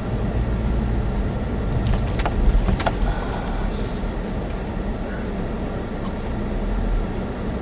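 Steady low rumble of a small car's engine and cabin, heard from inside a Chevy Spark, with a few short clicks or rattles about two to three seconds in.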